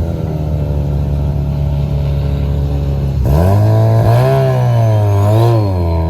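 Car engine held at a steady fast idle, then revved from about three seconds in, its pitch rising and dipping in a couple of swells before dropping back near the end.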